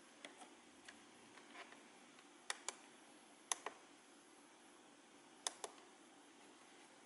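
Sharp plastic button clicks in quick pairs, three pairs about a second or two apart, with a few fainter ticks before them, over quiet room tone.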